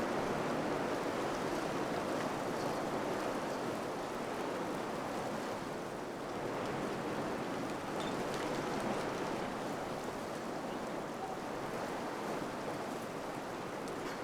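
Wind blowing steadily, a rushing noise that swells and eases slightly, with a few faint high ticks.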